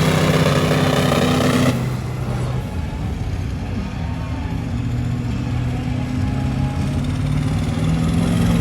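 Heavy truck engine running hard, loud and bright at first. About two seconds in the upper part of the sound cuts off abruptly, leaving a lower engine drone whose pitch slowly climbs near the end.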